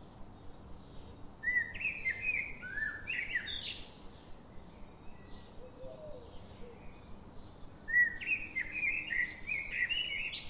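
A songbird singing: two bursts of quick, rising chirping phrases, about a second and a half in and again near the end, with fainter twittering between them.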